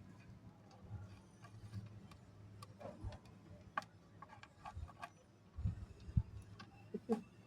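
Small dry snack pieces of mixed namkeen clicking and tapping as they are picked up and dropped while being sorted by hand: irregular light clicks, with a few soft low thumps about six seconds in. A steady low hum runs underneath.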